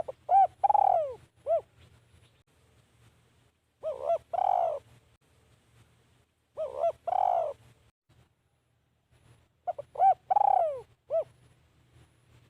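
Spotted dove cooing: four calls about three seconds apart, each a couple of short coos, then a longer, louder drawn-out coo, sometimes followed by one more short note.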